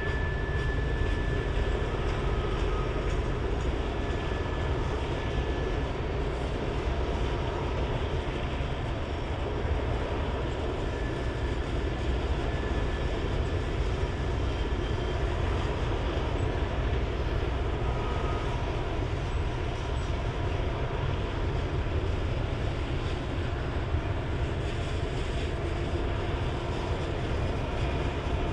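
Loaded coal hopper cars rolling steadily past close by: a continuous low rumble of steel wheels on rail, with a few thin, high-pitched squeals now and then.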